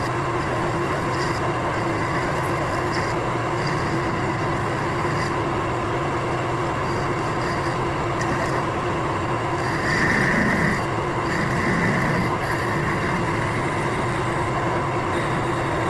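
Metal lathe running steadily with a constant hum and whine, growing briefly louder and higher-pitched about ten seconds in.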